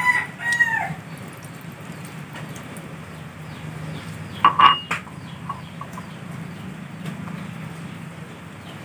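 Bird calls: a high pitched call tailing off downward just after the start, then a short cluster of calls about four and a half seconds in, over a steady low hum.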